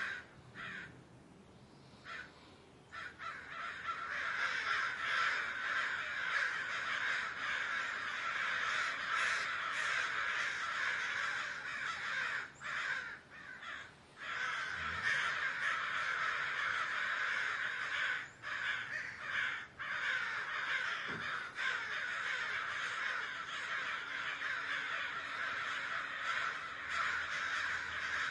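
A large flock of crows cawing all at once, the calls overlapping into a near-continuous clamour. It thins out briefly for a couple of seconds near the start, then fills back in.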